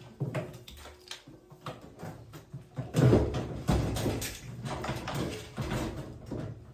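A run of knocks and clatter from hard objects being handled, denser and louder from about three seconds in.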